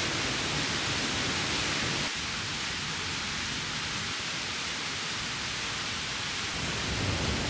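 A mountain stream rushing over rocks: a steady hiss of running water, a little quieter after a change about two seconds in.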